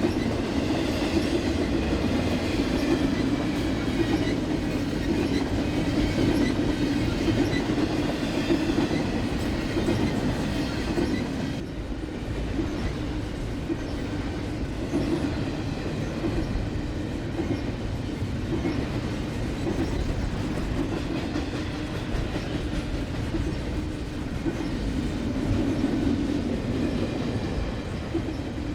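Freight train rolling along the track, a continuous steady rumble. The higher sounds thin out about twelve seconds in.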